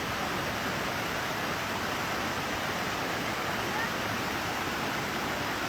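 Steady rushing water from a stream or waterfall, an even hiss with no break, with faint voices in the background.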